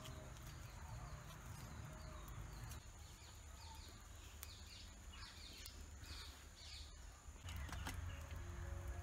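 Birds chirping in a quick series of short high calls through the middle, over a faint low rumble; background music fades out at the start and comes back near the end.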